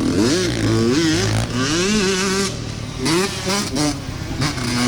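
Dirt bike engines revving on a motocross track, rising and falling in pitch as the bikes accelerate and shift, over a steady low engine drone.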